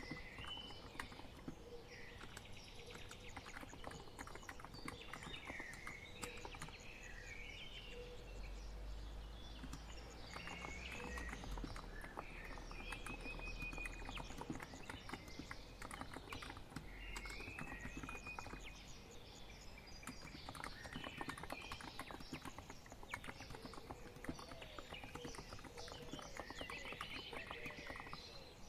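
Typing on a COX Empress electro-capacitive keyboard: a continuous patter of soft, muted keystrokes. Birds chirp and warble over it throughout.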